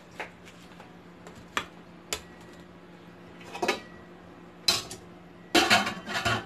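Dishes and kitchen utensils clinking and knocking: a few separate knocks, then a busier clatter near the end, over a steady low hum.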